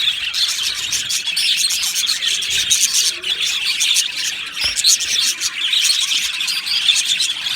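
A flock of budgerigars chattering and chirping without a break, many quick calls overlapping at once.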